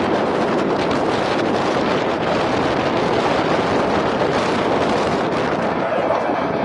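Jet engine noise from the USAF Thunderbirds' F-16 fighters: a steady, loud rushing sound without breaks.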